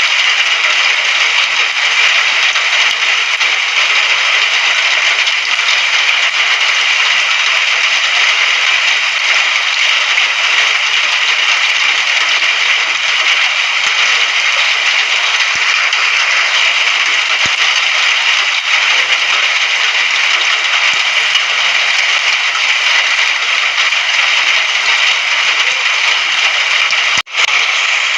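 Steady, dense rain noise, an even hiss with no rhythm or pitch, which cuts out for an instant near the end.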